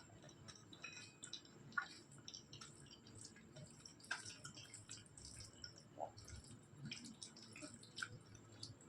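Faint, wet eating sounds: scattered small clicks and smacks of a mouth chewing and of food being handled.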